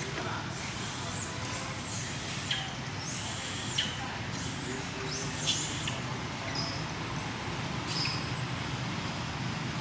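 Monkeys giving many short, high-pitched squeaks and squeals, some sliding down in pitch, over a steady low background hum.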